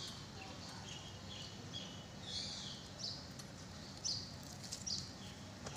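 Birds chirping in short high calls every second or so, over a steady low background noise.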